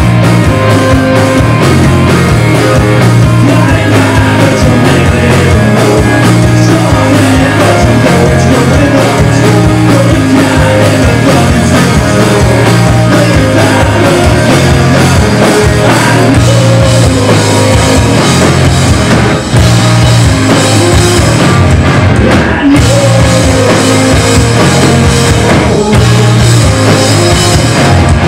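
Live rock band playing loudly: distorted guitars, bass and a drum kit pounding steadily, with some singing. The drums drop out for brief moments a few times near the end.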